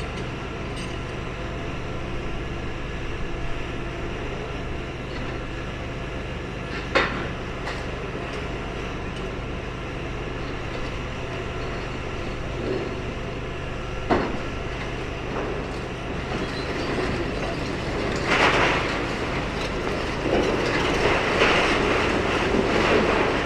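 Demolition excavator's engine running steadily while its pincer grab works on the building's steel frame, with two sharp bangs several seconds apart. Near the end, louder crunching and scraping of demolition debris comes in as material is pulled away.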